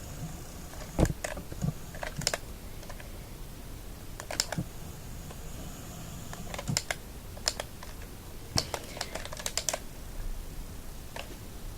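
Irregular sharp plastic clicks, some single and some in quick runs, spread out over several seconds, from a Siku Scania toy truck being handled and its light switches pressed.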